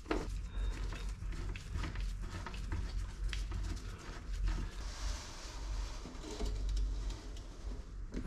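Scattered light clicks and knocks of hand work on car door parts, over a steady low hum.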